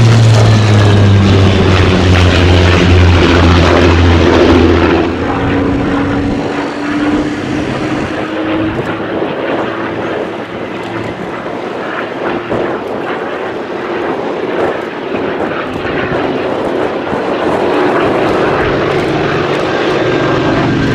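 Propeller-driven WW2 piston-engined fighter running at power with a steady pitched drone. About five seconds in it drops in level and carries on quieter.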